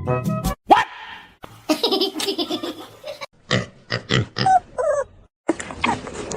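A pet animal's vocal sounds mixed with laughter, among several sharp clicks and knocks, with a brief silence near the end.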